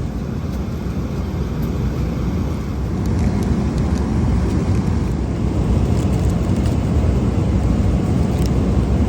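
Steady low cabin roar of a Boeing 777-200LR airliner in flight, engine and airflow noise, growing a little louder about three seconds in.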